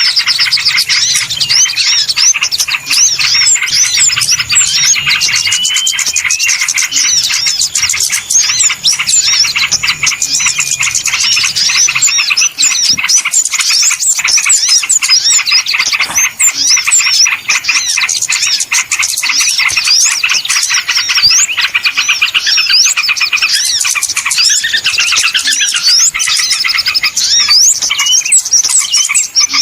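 A dense chorus of many small birds chirping and twittering at once, high-pitched, busy and unbroken: a small-bird lure recording of the kind played to draw small birds in.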